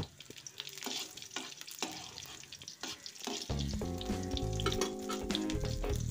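Chopped green chillies, sliced onion and mustard seeds sizzling and popping in hot mustard oil in a kadai. About halfway in, background music with held notes comes in over the frying.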